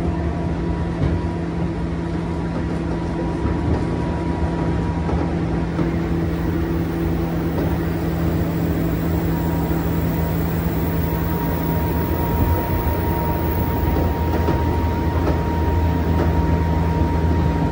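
JR West 201 series electric commuter train running at speed, heard from inside the car: continuous wheel-on-rail running noise with a steady low hum and a thin high whine from the traction equipment.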